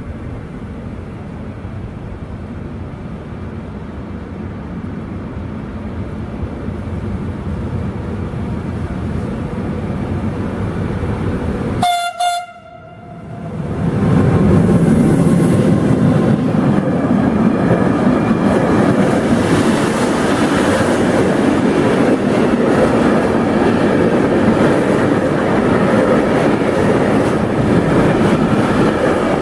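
Approaching train: its rumble grows steadily louder, a brief horn blast sounds about twelve seconds in, and then the locomotive and wagons pass close by with a loud, steady rumble of wheels on rails.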